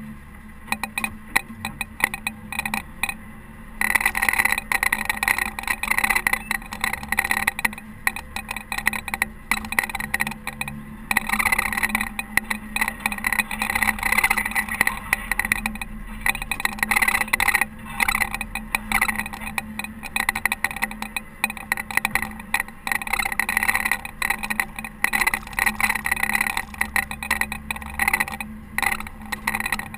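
Caterpillar TH330B telehandler running steadily while plowing snow: a constant engine hum under a rough, rushing noise that keeps dipping and swelling.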